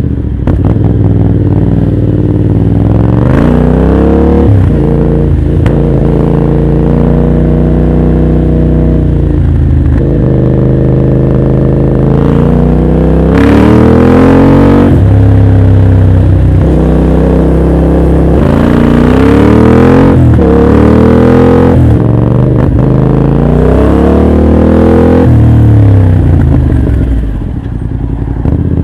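Motorcycle with an aftermarket full exhaust system, its engine rising in pitch several times as it accelerates through the gears, easing off near the end.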